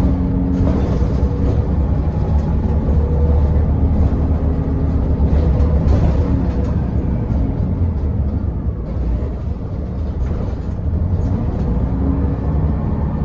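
Scania L94UB city bus running on the road, heard on board: a steady engine drone that builds through the first half, eases off for a moment around nine to ten seconds, then picks up again, with short rattles throughout.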